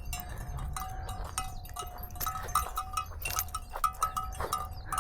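Bells on grazing cattle clanking irregularly, many short ringing strikes in quick uneven succession as the cows move.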